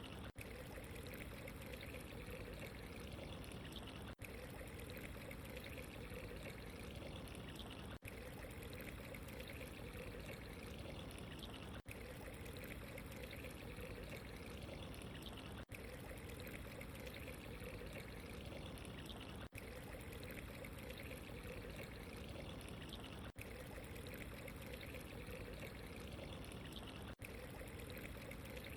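Steady trickling, pouring water, with very brief dropouts about every four seconds where the recording loops.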